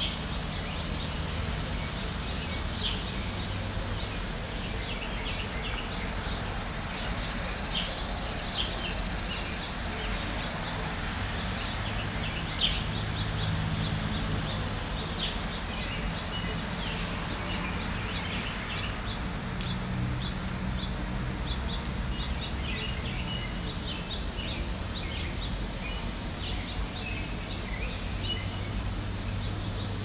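Outdoor ambience: many short, scattered bird chirps over a steady low background rumble.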